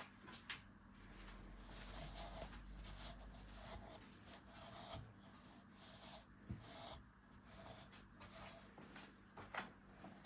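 Faint irregular rubbing and scraping strokes on wood, a few to the second with occasional sharper clicks, over a steady low hum.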